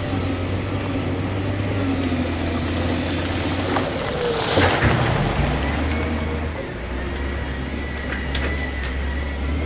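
Heavy diesel earthmoving machinery running steadily. About halfway there is a brief rushing noise, and after it the engine note settles lower.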